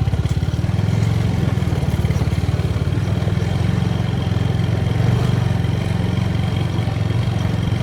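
TVS Apache motorcycle's single-cylinder engine running steadily under a rider, its quick even firing pulses over a haze of road and wind noise.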